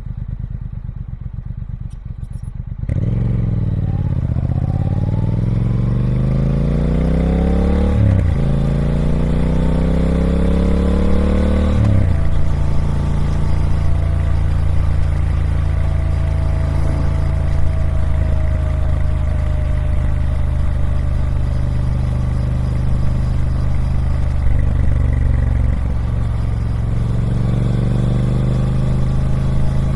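Triumph Speed Twin 1200's 1200cc parallel-twin engine through its stock exhaust. It runs quieter at low revs for about three seconds, then pulls with rising pitch and changes up twice, about eight and twelve seconds in. After that it holds a steady note.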